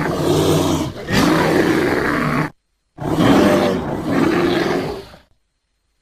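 Bear calls used as a Malayan sun bear sound effect: two long, rough calls, the first dipping briefly about a second in, the second starting a moment after the first ends.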